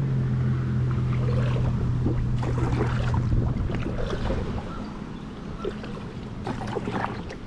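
Kayak paddle strokes, with short splashes and drips of water, over wind rumbling on the microphone. A steady low hum runs under the first half and fades out about halfway.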